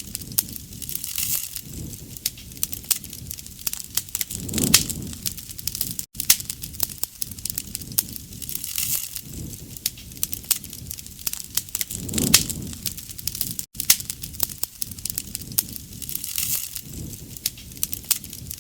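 Campfire of burning wood crackling and popping with many sharp snaps, and a low rushing swell of the flames about every seven and a half seconds. The same short stretch repeats as a loop, with a brief gap at each seam.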